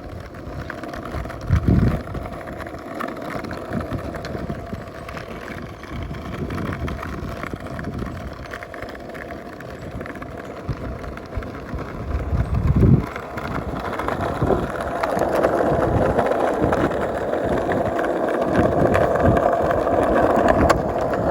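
Skateboard wheels rolling on pavement down a hill, a steady rumble that grows louder in the second half, with wind on the microphone and two short low thumps.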